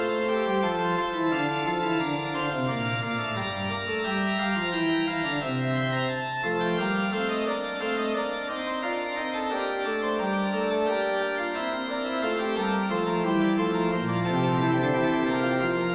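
Background music: organ playing a fugue, several lines of steady held notes moving against each other.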